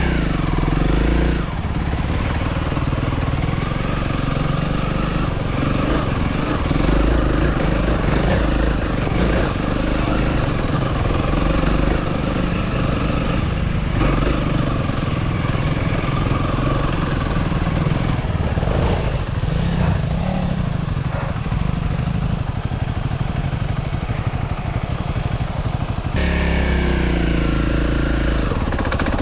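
Honda CRF300L single-cylinder four-stroke dirt bike engine working under load on a rough trail, the pitch rising and falling with throttle changes. Near the end the revs change and climb.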